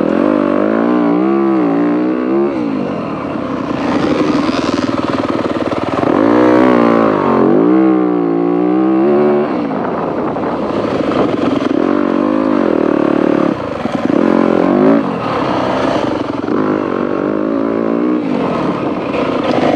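Dirt bike engine under the rider, revving up and down repeatedly as the throttle is opened and rolled off on a grass track.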